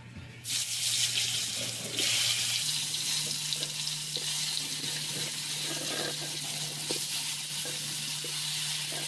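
Cauliflower florets sizzling as they are dropped into hot mustard oil in a kadai. The sizzle starts about half a second in and grows louder about two seconds in as more florets go in, with small crackles throughout.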